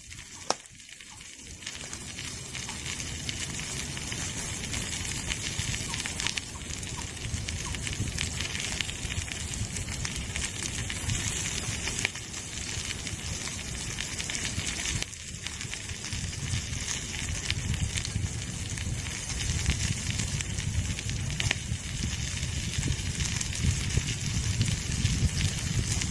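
Campfire burning with scattered crackles and pops over a steady hiss, building up over the first couple of seconds and then holding steady.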